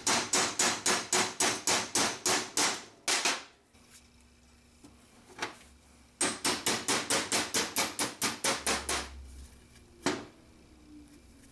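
Hammer blows in two quick runs of about a dozen strikes each, about four a second, with a single knock between the runs and another near the end.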